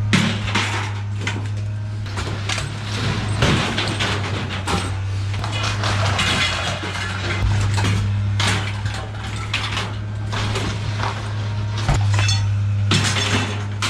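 Scrap metal being handled and thrown, clanking and clattering irregularly, over a steady low hum.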